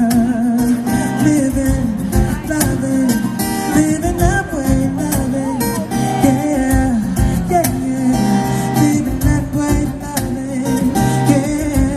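Live pop music with guitar and wordless, wavering vocal lines, in a passage without lyrics.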